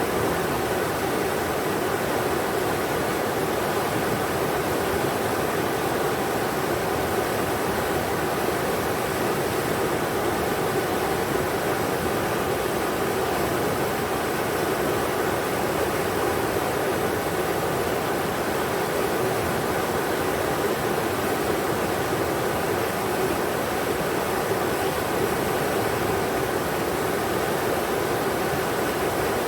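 River water rushing over rocks: a steady, even roar of flowing water with no breaks or changes.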